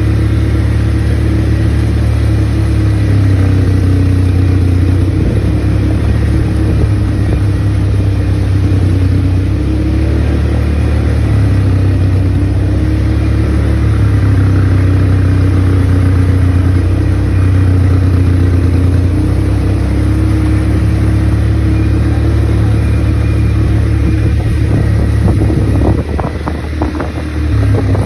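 ATV engine running under way, its pitch rising and falling as the throttle changes. Near the end it eases off briefly, with a few short knocks.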